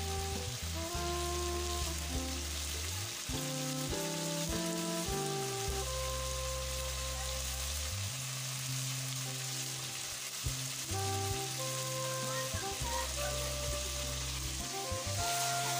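Fish, potato and cauliflower curry sizzling in a wok, as a steady hiss. Over it plays background music of slow, held notes with a low bass line.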